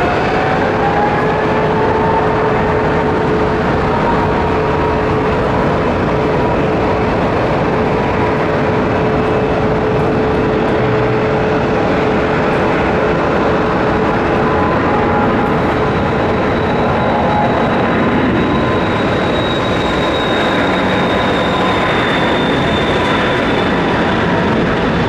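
Boeing 777-200ER's twin jet engines at take-off thrust: a loud, steady roar with a fan whine that rises in pitch over the first two seconds and then holds steady.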